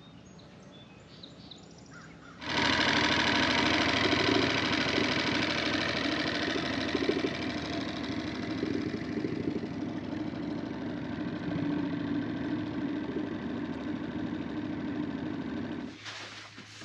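A boat engine running steadily. It starts abruptly about two seconds in, after a few faint bird chirps, and drops away near the end.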